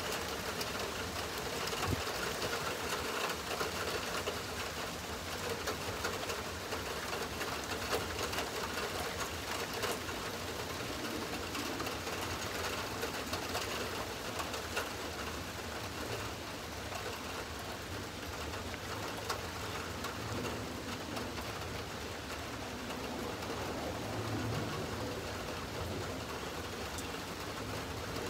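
Steady rain falling, a fine patter of many small drops.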